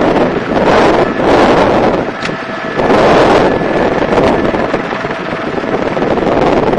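Wind buffeting the microphone in a helicopter in flight, coming in loud surges about once a second, over faint steady tones from the helicopter's engine.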